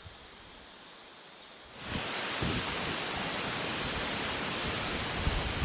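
A steady high-pitched chorus of insects, such as crickets, breaks off abruptly about two seconds in. It gives way to an even rushing noise with low buffets of wind on the microphone.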